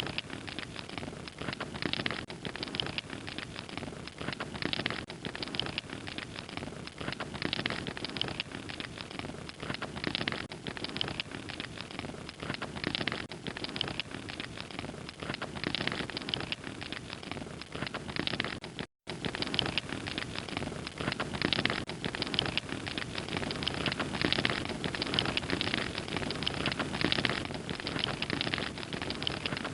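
Log fire crackling steadily: a dense, irregular run of small snaps over a soft hiss. About two-thirds of the way through, the sound cuts out completely for a split second.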